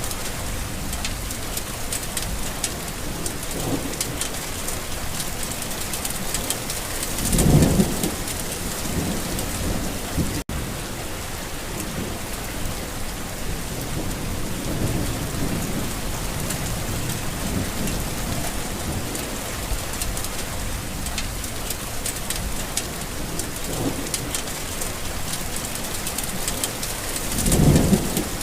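Steady rain falling, with low rolls of thunder: two louder rumbles, one about a quarter of the way in and one near the end, and fainter ones between. The sound cuts out for an instant about ten seconds in.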